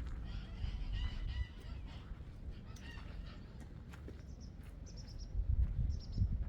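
Domestic fowl calling, a run of harsh pitched calls in the first second and a half, another around three seconds in, then shorter, higher calls. A low rumble with a few knocks near the end is the loudest part.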